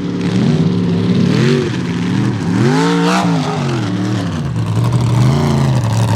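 Mega mud truck's engine revving hard, its pitch climbing and falling several times, with one big rise and drop about three seconds in, then holding steadier near the end.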